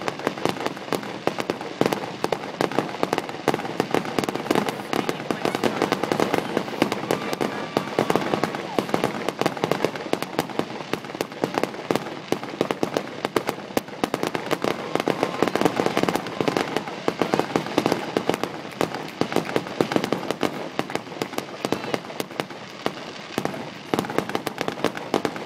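Fireworks display going off in rapid succession: many bangs a second with no pause.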